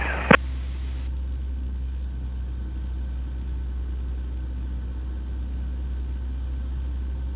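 Cessna 172's engine and propeller droning steadily in the cabin on approach, a low, even hum. A short click sounds just after the start as a radio transmission ends.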